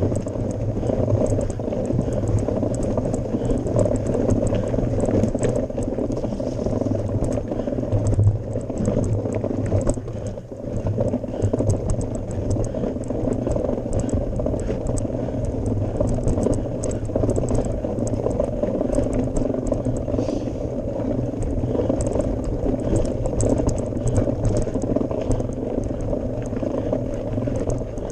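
Mountain bike riding on a gravel forest road: wind rumble on the action-camera microphone, with tyres crunching over loose stones and small rattles from the bike.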